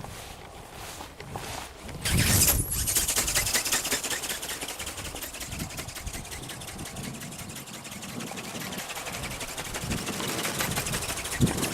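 Wind buffeting the microphone, then about two seconds in a rapid, even mechanical clatter starts and keeps going: the geared brushless motor of a radio-controlled butterfly ornithopter driving its flapping wings.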